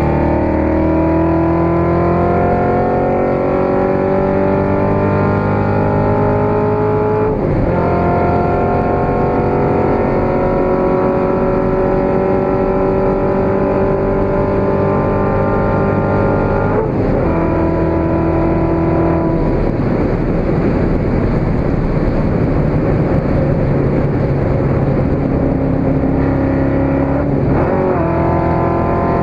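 Tuned Corvette C7 Z06's supercharged 6.2-litre V8, breathing through a Capristo exhaust, pulling hard through the gears. The pitch climbs steadily and drops sharply at upshifts about 7 s in, again around 17 s and near the end. Around 20 s there is a stretch where the rising tone eases and the sound turns rougher before it climbs again.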